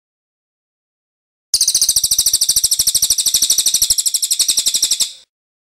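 A songbird's fast, high-pitched rattling trill of evenly repeated sharp notes, about a dozen a second, starting about a second and a half in and stopping abruptly about three and a half seconds later.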